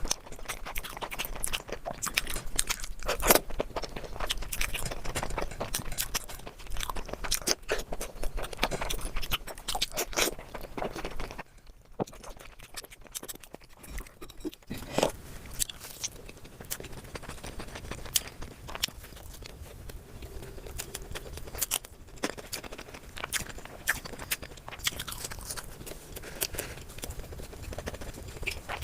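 Close-miked chewing and crunching of a person eating curry and rice in big mouthfuls, a dense run of wet clicks and crackles, with a brief quieter lull about twelve seconds in.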